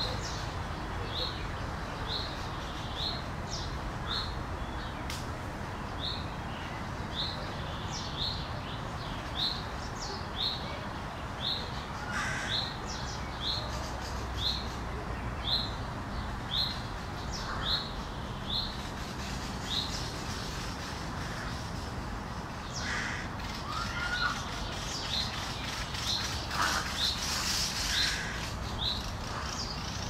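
Birds calling: one small bird repeats a short high note about once a second, and harsher calls come in now and then, mostly in the second half, over a low steady rumble.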